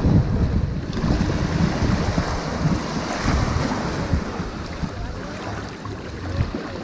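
Ocean waves washing onto a sandy beach in a continuous rush of surf, swelling about three seconds in. Wind rumbles on the microphone.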